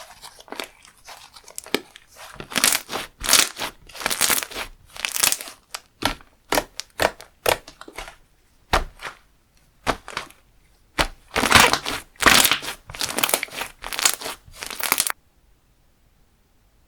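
Creamy slime being squished, stretched and folded by hand, giving irregular wet crackles, clicks and tearing pops in bursts, which stop suddenly near the end.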